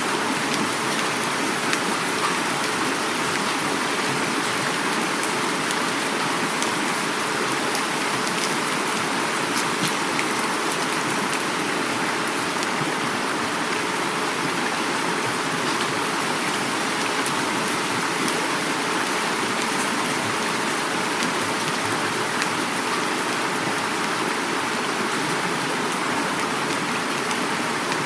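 Heavy rain falling steadily, with many fine drop ticks, mixed with the rush of flowing river water.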